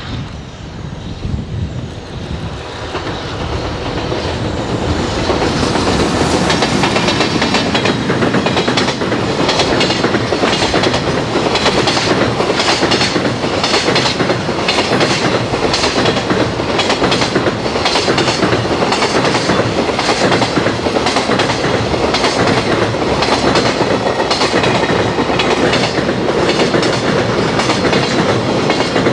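A JR Freight EH500 electric locomotive hauling a long container freight train passes close by. The sound builds over the first few seconds as the locomotive approaches, then the wagons' wheels clatter steadily and rhythmically over the rail joints as the train streams past.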